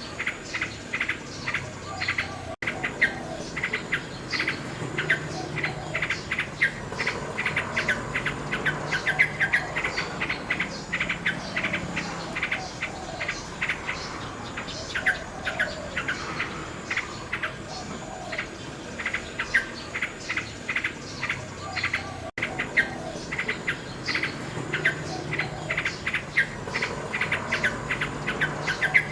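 Common nightingale singing: rapid runs of repeated notes and trills, with lower warbled phrases in between. The sound cuts out for an instant twice, a few seconds in and past the middle.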